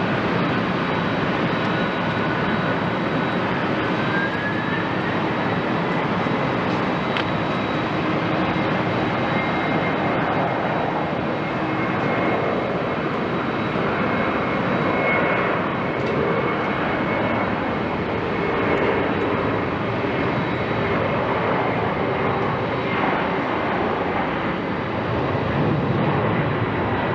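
Jet engines of a Boeing 767-300ER running steadily, with a whine that rises in pitch about four seconds in.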